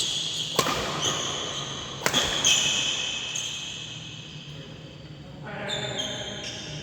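Badminton rally in an indoor hall: two sharp racket strikes on the shuttlecock about a second and a half apart, with high squeaks from players' shoes on the court.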